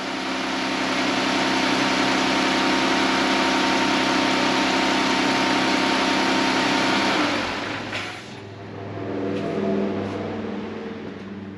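2021 Jeep Cherokee engine running at idle after a fresh oil fill, letting the new oil circulate, then shut off about seven seconds in. A click follows, then a fainter hum as things wind down.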